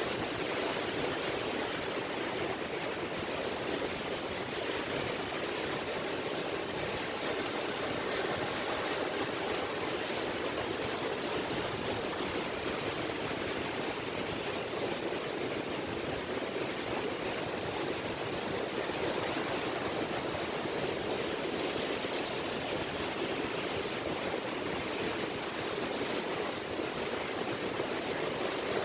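Small sea waves (sazanami) washing gently on the shore of the Seto Inland Sea: a steady, even wash of water with no distinct breaking crashes.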